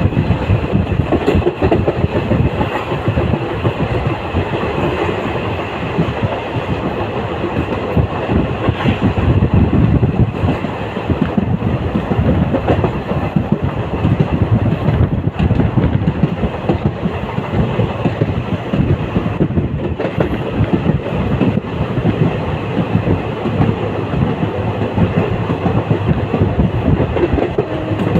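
Passenger train running along the track, its wheels clattering steadily over the rails, heard from aboard the moving train.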